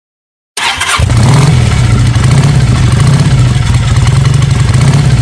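Motorcycle engine starting: about half a second in, a brief crank catches, then the engine settles into a loud, steady idle with a rapidly pulsing low rumble.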